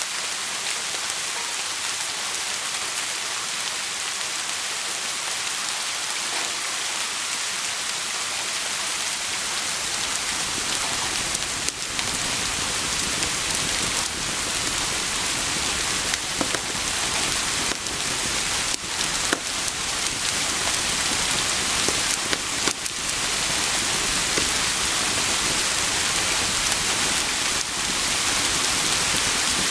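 Steady heavy rain, a dense even hiss; about a third of the way in a deeper rumble fills in beneath it, and a scattering of short sharp pops stands out through the middle.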